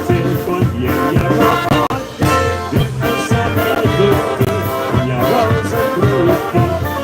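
Live polka band playing a polka with a steady beat, its melody instruments running over a low oom-pah bass.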